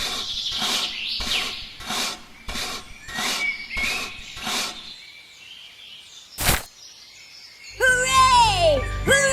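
A regular series of short, sharp taps or scrapes, about three every two seconds, with bird chirps; they stop about two-thirds of the way through, a single sharp click follows, and music with sliding tones and a bass comes in near the end.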